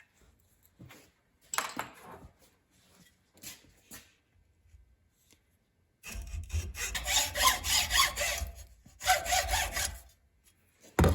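Hand saw cutting with steady back-and-forth strokes, trimming off extra length on a homemade replacement knob. Light handling clatter comes first, the sawing starts about six seconds in, and it pauses briefly just before the end.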